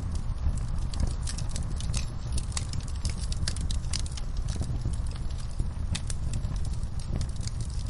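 Campfire burning: wood crackling with frequent sharp, irregular pops and snaps over a steady low rumble of the fire.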